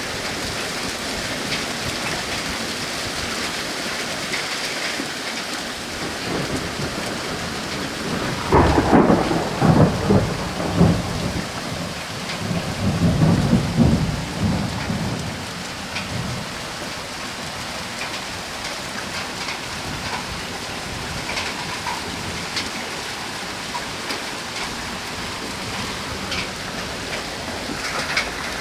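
Steady rain falling on surfaces, with a long peal of thunder rumbling about a third of the way in, coming in two surges over several seconds.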